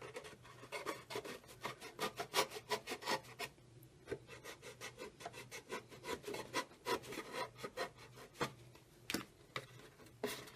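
Plastic orange juice container being cut by hand to widen a flap: a quick run of sharp scraping clicks, with a brief pause about three and a half seconds in.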